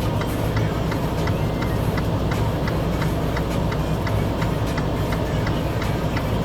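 A vehicle engine running steadily with a low rumble, heard together with a regular light ticking.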